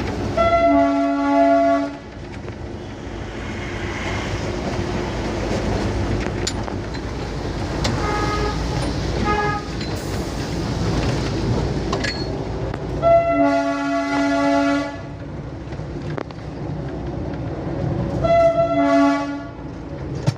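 Diesel train running with a steady rumble, its horn sounding several long multi-note blasts: a loud one at the start, a fainter, shorter one midway, and two more loud ones near the end.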